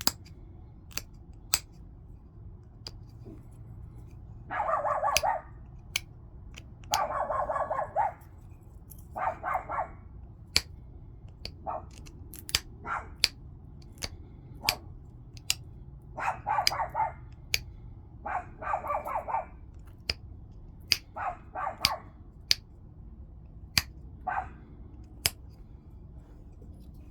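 Flintknapping: sharp clicks of flakes snapping off the stone, about one a second, between seven or eight louder rasping bursts that each last about a second.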